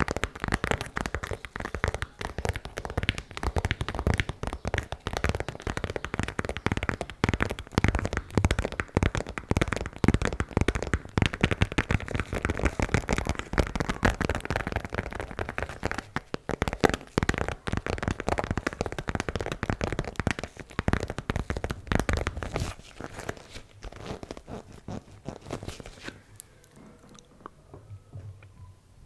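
ASMR tapping: fast, dense taps and clicks with a crunchy, crinkly edge. About three-quarters of the way through it thins out into sparser, quieter taps.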